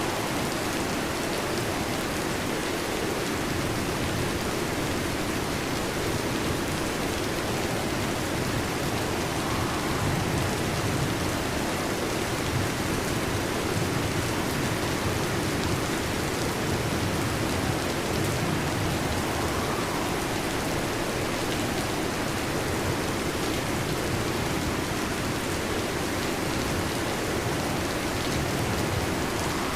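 Steady heavy rain falling, an even hiss with no distinct thunderclap, swelling slightly in the low end now and then.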